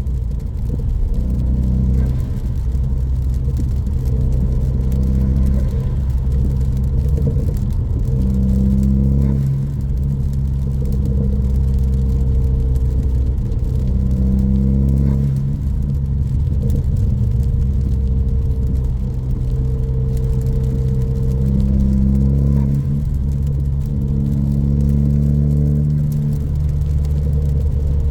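2014 Ford Focus ST's turbocharged 2.0-litre EcoBoost four-cylinder, breathing through a high-flow catted downpipe and a straight 2.5-inch exhaust, running at a steady cruise. It makes a low exhaust drone whose pitch shifts only slightly now and then.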